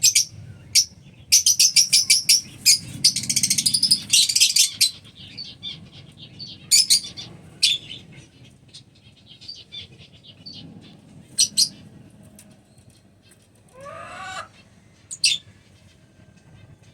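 Lovebirds chattering in rapid, shrill high-pitched chirps, dense for the first few seconds and then thinning to scattered single calls, with one short wavering rising call near the end.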